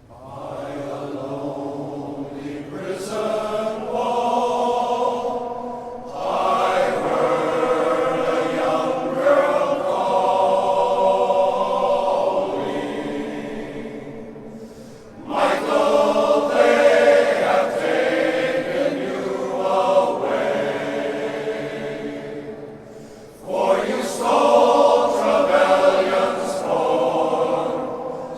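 Men's glee club singing in harmony, starting together at the opening and going on in long phrases, with short drops in loudness between phrases about halfway through and near the end.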